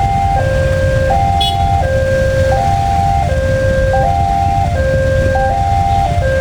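Electronic railway level-crossing warning alarm sounding a repeating two-tone chime, high then low, cycling about every second and a half. Under it is a steady low rumble.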